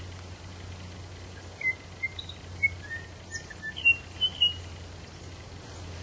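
A bird whistling a quick run of about a dozen short notes that jump and slide in pitch, starting about a second and a half in and lasting about three seconds. A steady low hum and a hiss sit under it throughout.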